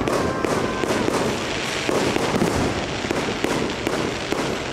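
Aerial fireworks bursting in quick succession: a dense run of sharp cracks and pops, with a few deeper booms among them.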